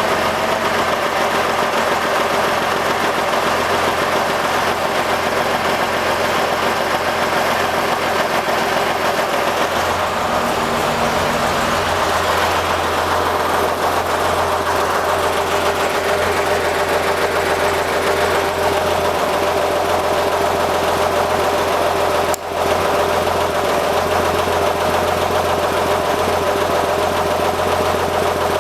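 Air-cooled Porsche flat-six test engine running steadily on a freshly rebuilt set of Weber 40 IDAP carburetors, as the carburetors are balanced and tuned. Its note changes slightly about ten seconds in, and it drops out for an instant about 22 seconds in.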